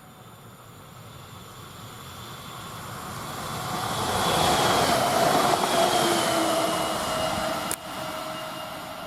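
Newag Impuls electric multiple unit approaching and passing, rising to a peak about halfway and then fading, with a whine from the traction drive that drops slightly in pitch as it goes by. A single sharp click sounds near the end.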